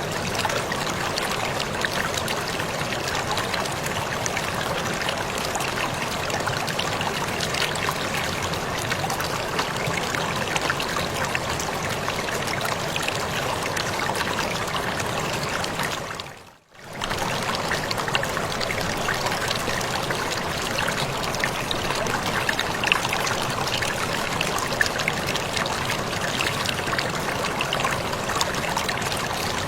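Waterfall water splashing and pouring in a steady rush, with fine droplet spatter through it. About halfway through it briefly fades out almost to nothing and comes straight back.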